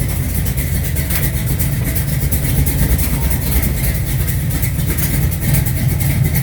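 Heavily cammed 440 big-block V8 of a 1969 Dodge Charger R/T idling steadily, deep and loud. It is still cold with no choke, and the owner says it has a little exhaust leak and needs a tune-up.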